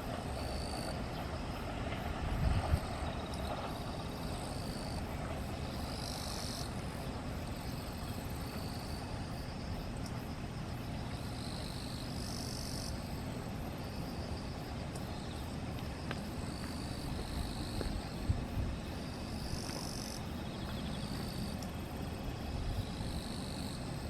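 Low, steady rumble of an electric train running, with insects chirping in short repeated high bursts over it.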